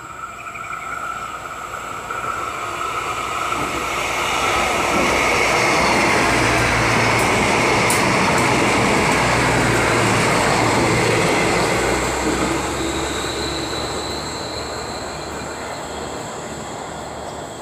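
Passenger train passing through a station at speed on the near track: the rush of wheels on rail grows as it approaches, stays loud for several seconds while the coaches go by close, then fades.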